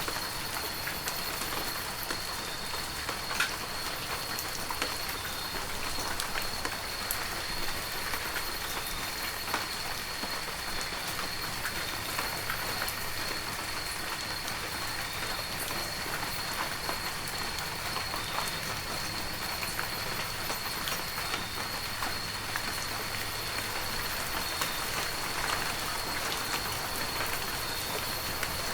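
Heavy rain falling steadily, with scattered individual drops ticking on surfaces. A thin, steady high tone runs underneath throughout.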